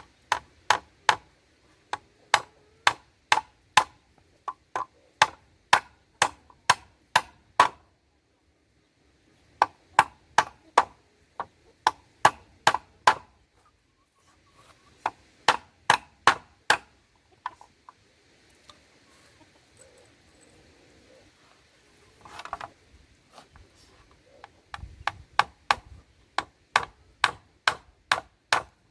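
Chopping with a blade: runs of sharp strokes at about two to three a second, broken by short pauses, with a brief scraping sound about two-thirds of the way through.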